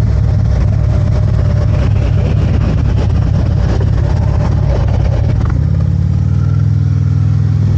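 Harley-Davidson motorcycle engine running loudly and steadily; the engine note changes about five and a half seconds in.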